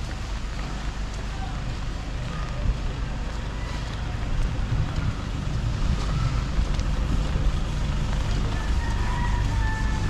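Street ambience: a low rumble of traffic and wind on the microphone, with faint distant voices, growing louder about halfway through.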